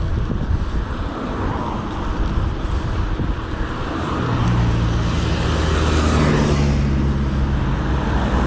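Motor vehicle traffic passing on the road: a car's engine hum comes in about halfway through and grows louder as it passes, over a steady rushing noise of riding along.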